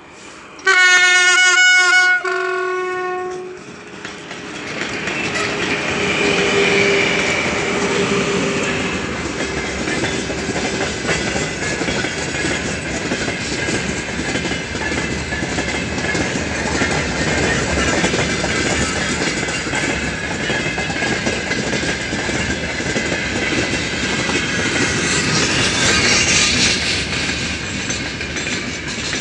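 3ES5K "Ermak" electric locomotive blows one horn blast of about a second and a half, then its freight train of gondola cars passes close by: a steady heavy rumble with wheels clattering over the rail joints.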